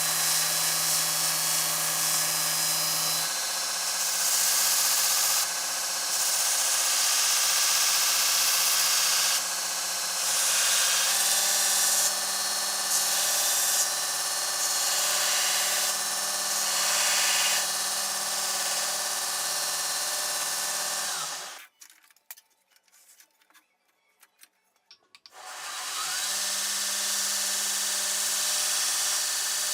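Electric power tool motor running with a steady hum and a rough, hissing abrasive grind, typical of shaping or finishing a knife blade or handle. It cuts out for a few seconds near the end, then starts again.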